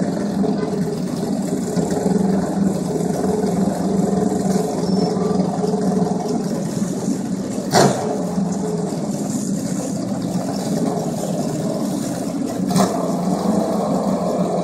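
Drag-racing motorcycle engines running at a steady idle on the starting line. Two sharp cracks come about eight and thirteen seconds in.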